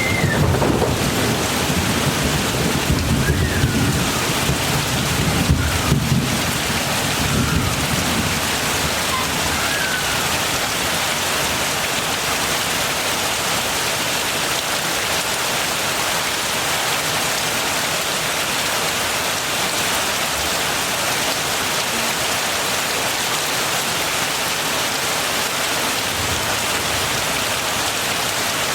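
Heavy rain falling steadily as an even hiss. A low rumble of thunder sits under it for the first several seconds, then fades out.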